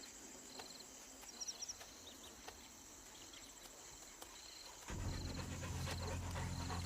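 Insects chirping in a steady rhythm, short high trills about twice a second, with a few brief higher calls about a second and a half in. About five seconds in a low steady hum comes in beneath them and the sound grows louder.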